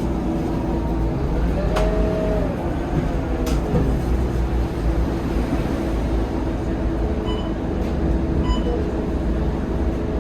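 Scania K230UB single-deck bus running, heard from inside the cabin: a steady low engine and road rumble, with a couple of short clicks in the first few seconds.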